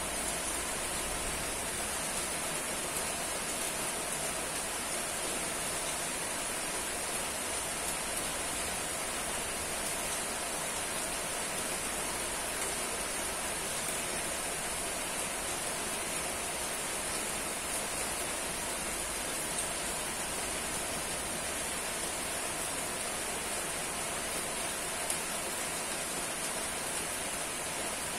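Steady rain falling, an even hiss of many drops with a few faint ticks of single drops.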